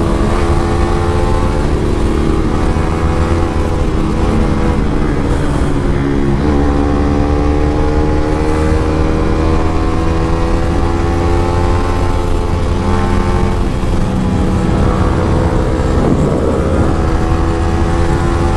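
Motorcycle engine running at cruising speed, its pitch easing down and rising again gently with the throttle, over a constant low rumble of wind on the microphone.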